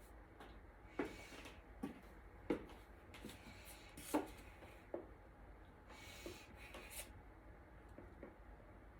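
A few light knocks and taps, like objects being set down or handled, the sharpest about one, two and a half and four seconds in, over quiet room tone.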